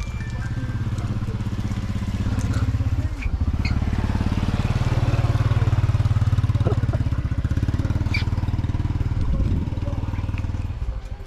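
Motorbike engine running close by. Its note shifts about three seconds in, and the engine stops near the end.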